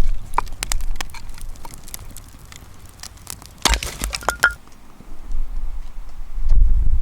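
Wood campfire crackling and popping in irregular sharp cracks, with a dense cluster about four seconds in. Wind rumbles on the microphone at the start and again near the end.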